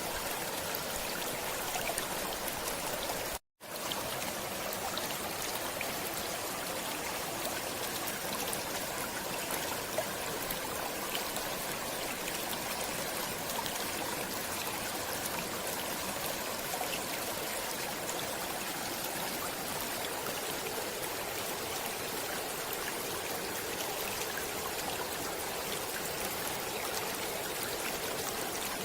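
A stream's running water flowing steadily, an even rushing hiss. It cuts out completely for a split second about three and a half seconds in, then resumes.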